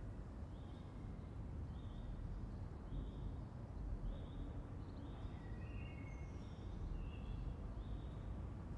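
Outdoor ambience: a bird repeating a short high chirp about once a second, with a few other bird calls near the middle, over a steady low background rumble.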